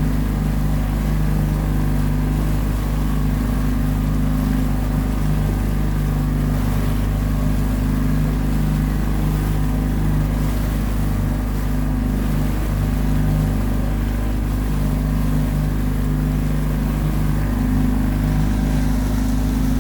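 Dinghy's outboard motor running at a steady speed.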